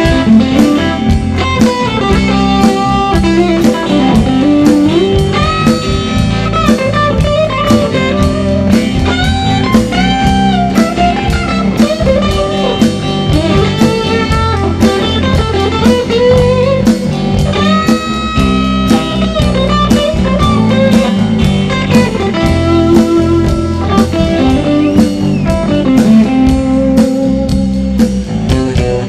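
Electric guitar solo with bending, held notes over a full rock band with a steady drum kit, played live.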